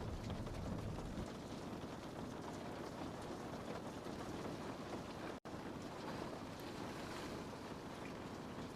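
Steady rain on a window, a continuous patter of drops on the glass. About five seconds in the sound cuts out completely for an instant, then carries on unchanged.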